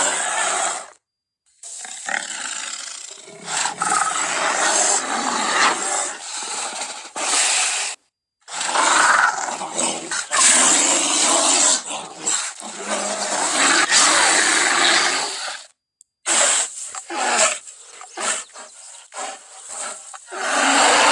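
Sound effects for a cave bear: a run of loud, rough animal roars and growls made up of separate clips, with short silent breaks between them.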